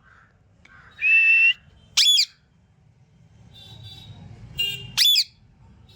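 Pet parrot whistling one held note about a second in, then giving two short, sharp downward-sweeping calls about three seconds apart, with faint softer chatter between them.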